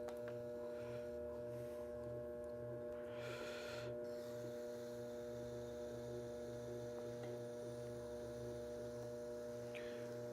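Steady electric hum of a running pottery wheel motor, with a low pulse about twice a second. A brief faint scrape comes about three seconds in, as a trimming tool cuts into the leather-hard clay.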